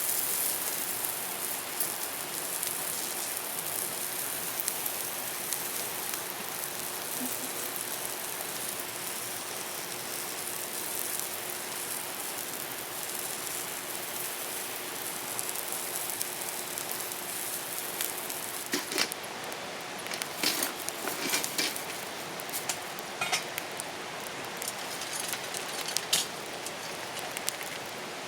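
Meat sizzling on a hot iron griddle, a steady crackling hiss that thins out over the second half. In the last third come scattered sharp clicks and knocks of utensils on the griddle and dishes.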